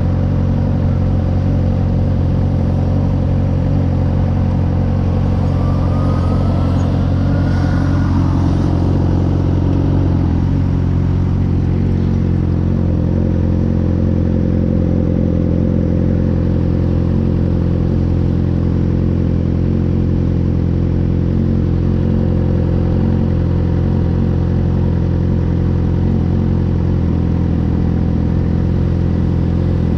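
2009 Suzuki GSX-R 600's inline-four engine with an M4 exhaust running at a steady speed, its note holding one pitch throughout. A faint rising whine comes in about six to eight seconds in.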